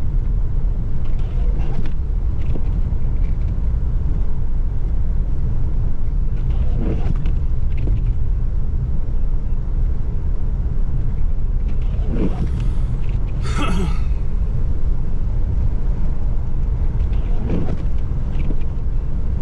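Steady low rumble of a car driving at about 30 mph through deep snow on the highway, heard from inside the cabin: tyre and engine noise with no change in pace. A few faint brief voice-like sounds rise over it about a third of the way in, again past the middle, and near the end.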